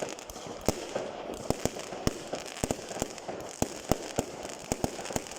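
Fireworks going off: a fast, irregular string of sharp bangs and cracks, some louder and nearer than others, over a continuous crackling haze.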